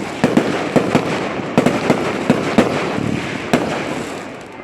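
Fireworks going off: an irregular run of sharp bangs and crackles, a few louder reports among them, with the crackling dying down near the end.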